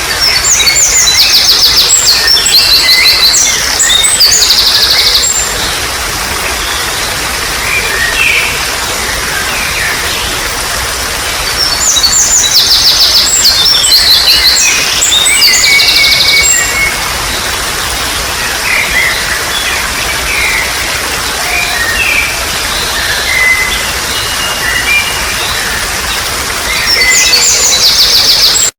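Babbling stream water running steadily under songbirds singing: bursts of fast, trilling song at the start, again about twelve seconds in and near the end, with scattered shorter chirps between.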